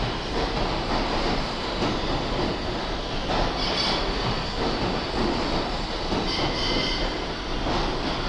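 New York City Subway R142A/R188-conversion 7 train rolling into a station, a steady rumble of wheels on rail with high wheel squeals about halfway through and again near the end.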